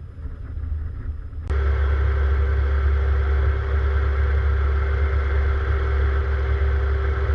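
A low hum gives way, at an abrupt cut about a second and a half in, to a jet aircraft engine running steadily: a loud low rumble with a steady whine above it.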